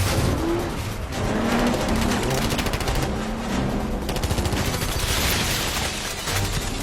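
Rapid bursts of automatic gunfire, many shots in quick succession, mixed over the film's music score.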